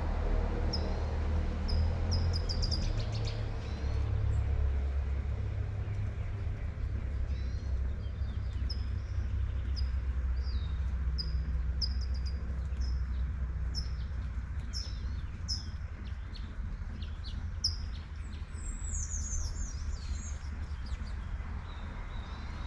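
Small birds chirping in short high notes repeated about once a second, with a quick trill near the end, over a steady low rumble of traffic and the light hiss of rain.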